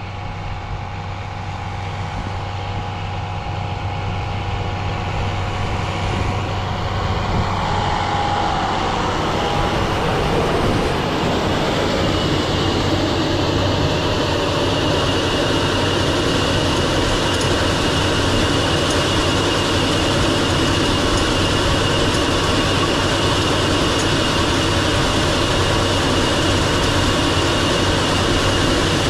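Tractor engine running steadily under load while sowing grain. It grows louder over the first ten seconds or so, then holds steady with a high whine on top.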